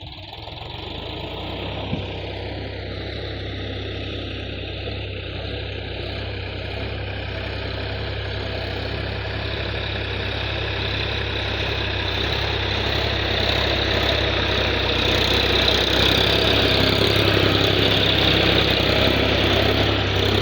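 Solis 4215 tractor's diesel engine running steadily at a low idle-like beat, growing gradually louder through the middle of the stretch.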